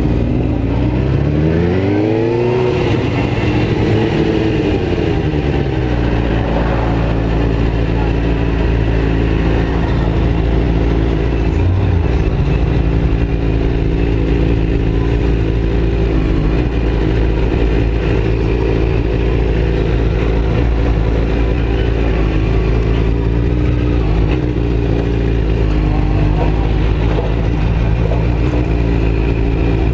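Motorcycle engine pulling away, its pitch rising and dropping a few times as it goes up through the gears, then holding a steady drone at cruising speed.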